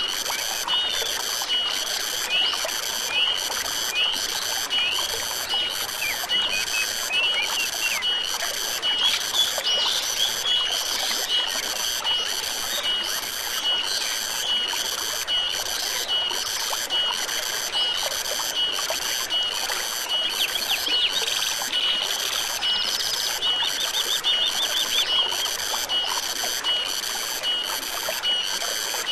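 Forest stream flowing steadily, with a high pulsed animal call repeating about one and a half times a second and scattered short bird chirps over it.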